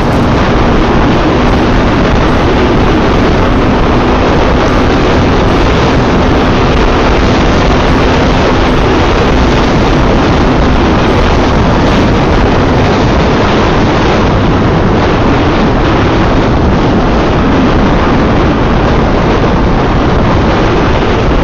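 Steady loud wind rush over the microphone from a motorcycle ridden at highway speed, with the Yamaha FZ V3's single-cylinder engine humming underneath; the engine tone fades into the wind about halfway through.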